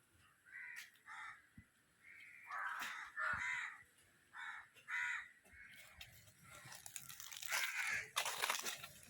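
Crows cawing, a string of short separate caws. From about six seconds in, a rising rustling with sharp crackles joins them.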